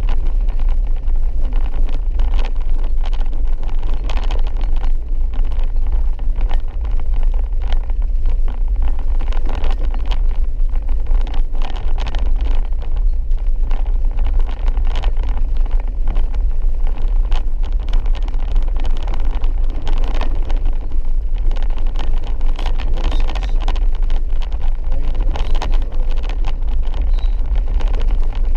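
A vehicle driving on a rough dirt road: a steady low rumble of engine and road noise, with frequent small knocks and rattles.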